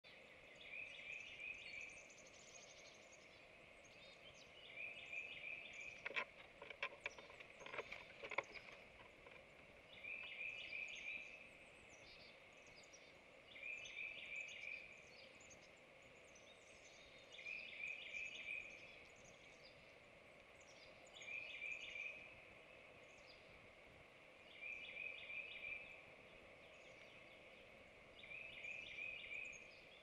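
A songbird repeats the same short song of quick notes about every three to four seconds, with fainter chirps of other birds above it. About six seconds in comes a two-second burst of sharp scraping knocks, the loudest sound here: a barred owl's talons scrabbling on the wooden nest box as she climbs up to the entrance hole.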